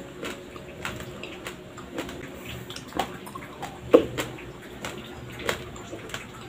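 Raw, uncooked Dinurado white rice being chewed: irregular sharp crunches of grains cracking between the teeth, with louder cracks about three, four and five and a half seconds in.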